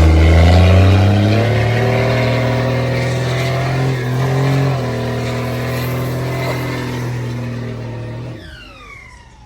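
A loud vehicle engine accelerating. Its pitch rises over the first two seconds and then holds. It climbs briefly again about four seconds in and drops back, and the sound falls away sharply about eight seconds in.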